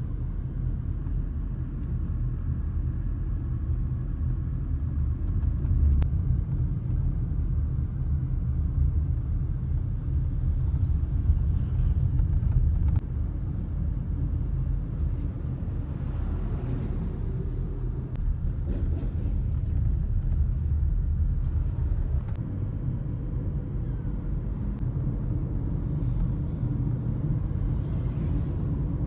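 Heavy truck traffic: a steady low engine and road rumble, with a few swells of hiss as vehicles pass.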